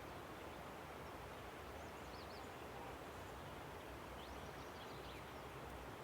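Steady rushing of a river, with small birds chirping faintly over it in two short bursts of high calls, about two seconds in and again past the middle.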